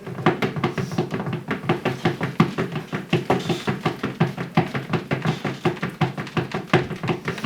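Rapid, irregular tapping and knocking, several strikes a second, starting abruptly and going on without a break.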